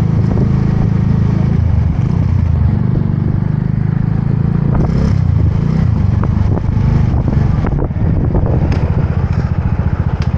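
Motorbike engine running while riding, a steady low engine note with a few brief clatters; near the end it settles into an even, rapid putter at low revs.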